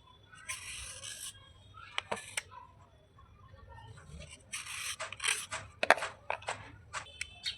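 Pieces of slate being rubbed and crunched. Two stretches of gritty scraping are broken up by a series of sharp cracks and snaps, most of them in the second half.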